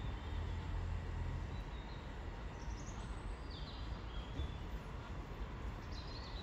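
Low rumble of an electric train at the platform, strongest in the first second or so, with small birds chirping several times.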